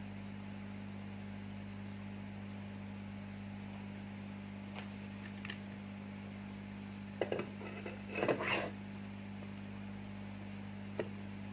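Steady electrical mains hum, with a few brief clicks and a short cluster of handling rustles and clicks about two-thirds of the way through, and a single click near the end.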